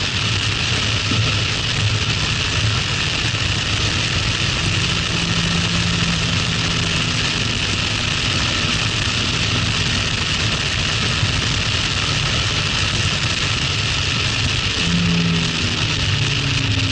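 Toyota MR-S's 1.8-litre 1ZZ-FE four-cylinder engine with stock exhaust running hard on track, heard from the open cockpit with strong wind noise over the engine.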